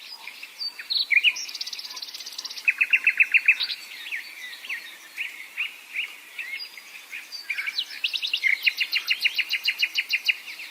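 Songbirds singing: assorted chirps and whistled notes, with rapid trills of quick repeated notes, one about three seconds in and a longer one near the end.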